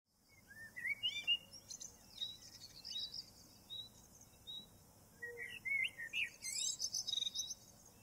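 Songbirds singing and chirping: a short high note repeats at a steady pace, and there are quick runs of rising and falling chirps about a second in and again past the middle.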